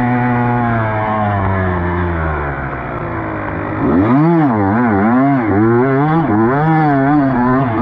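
Dirt bike engine under way, its revs steady at first and then falling away as the throttle is rolled off. About four seconds in the revs start rising and falling quickly, about two times a second, as the throttle is worked on and off.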